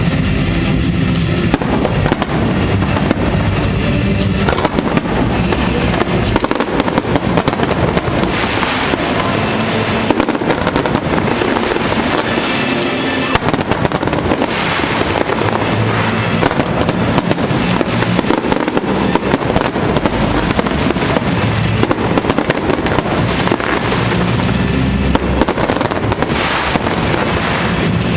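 Fireworks display: aerial shells bursting and crackling continuously in dense volleys, with music playing underneath.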